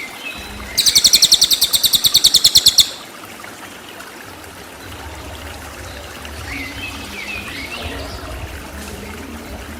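Cililin songbird giving a rapid-fire burst of sharp high notes, about ten a second, for around two seconds starting just under a second in. After that comes a steady watery background with a low rumble and a few faint chirps.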